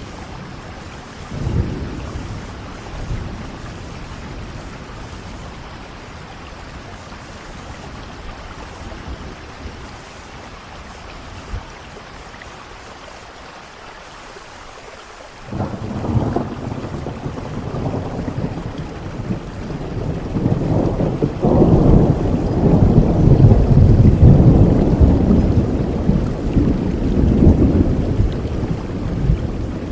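Steady rain with thunder: a short rumble about a second and a half in, then a loud rolling thunderclap that breaks in suddenly about halfway through, swells for several seconds and slowly fades.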